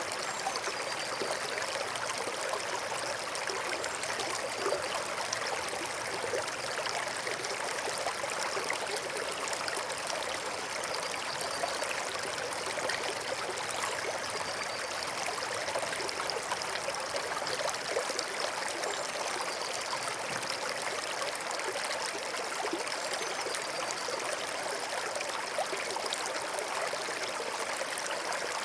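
Stream water running and trickling in a steady, even babble.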